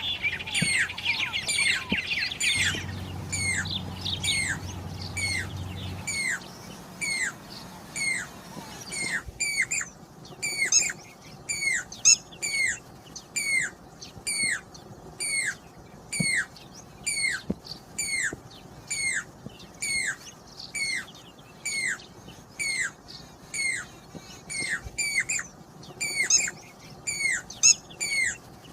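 Jacobin cuckoo (pied crested cuckoo) calling: a long series of short, clear whistled notes that each fall in pitch, about one and a half a second. The notes are crowded and overlapping for the first several seconds, then come singly and evenly.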